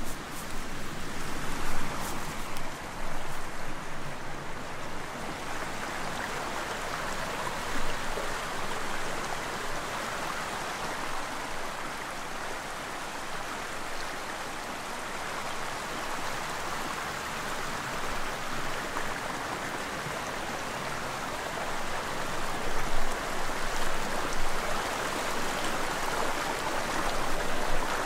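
Stream water flowing steadily over stones, an even rushing babble, with a few brief louder knocks or splashes, most of them near the end.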